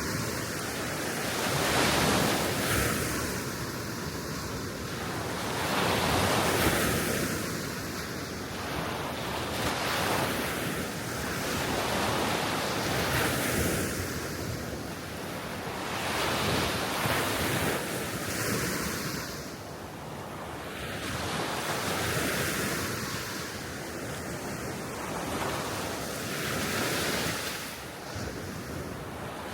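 Small waves breaking on a Baltic Sea shore, the surf swelling and easing about every four seconds, with wind in the microphone.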